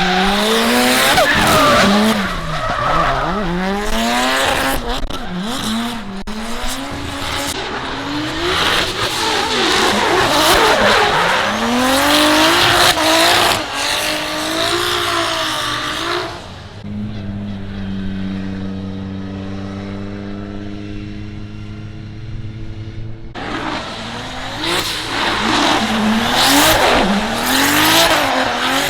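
Drift cars on a wet track: engines revving hard with rapid rises and falls in pitch over a loud hiss of tyres spinning and sliding on the wet surface. Past the middle the hiss drops away and a single engine runs at a steady pitch for about six seconds before the revving and tyre noise return.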